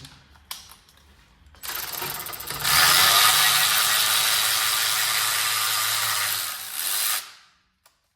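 A handheld power tool running with a fast ratcheting rattle for about five seconds, louder after the first second, then stopping abruptly.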